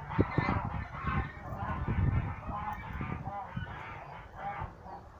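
Domestic geese honking over and over, with wind buffeting the microphone.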